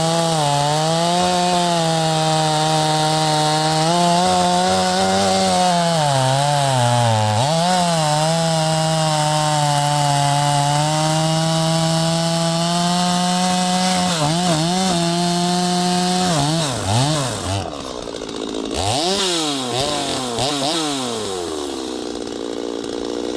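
Neotec NS846 45.4cc two-stroke chainsaw, a Stihl MS 250 clone, cutting wood at full throttle, its pitch sagging briefly a few times as the chain bites. About sixteen seconds in the throttle is let off and blipped several times, and the engine settles toward idle near the end.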